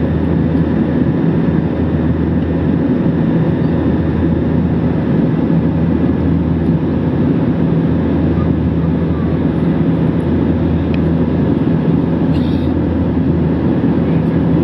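Steady drone of an airliner's jet engines and airflow heard inside the passenger cabin: a constant low rumble with a steady hum.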